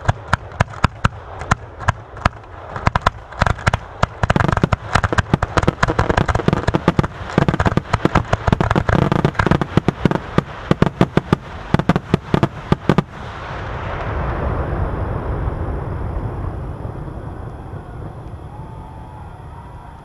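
Fireworks finale: a rapid, dense barrage of aerial shell bursts, many bangs a second, that stops abruptly about thirteen seconds in. A broad wash of noise then swells and slowly fades.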